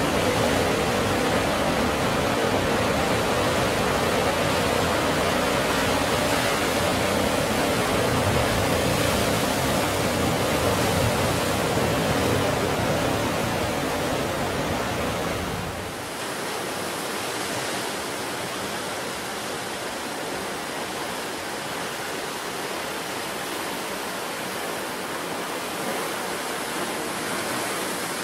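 Sea surf washing steadily onto the shore, an even rushing noise. A little over halfway through, the sound drops suddenly to a quieter, thinner wash with less low rumble.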